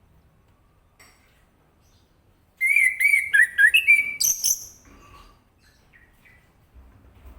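Orange-headed thrush singing one loud phrase of about two seconds, starting about two and a half seconds in: quick repeated sliding notes, then higher, shriller notes at the end, followed by a few faint chirps.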